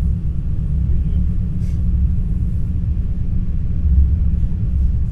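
Steady low rumble inside the passenger cabin of an NS ICNG (Alstom Coradia Stream) electric intercity train running on the track, with a few faint high ticks over it.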